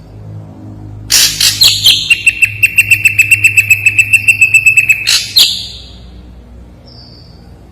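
Ashy drongo singing: a few harsh notes, then a fast rattling trill of about eight notes a second held over a steady high tone for about three seconds, closing with a harsh note. A short high whistle follows near the end.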